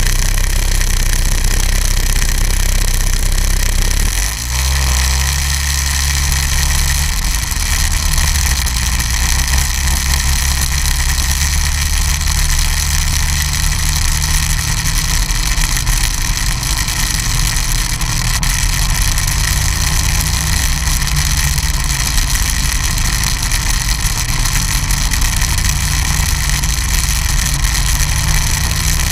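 Snowmobile engine running steadily, with a brief dip in loudness about four seconds in, after which its low drone settles at a new pitch. A steady hiss runs over it.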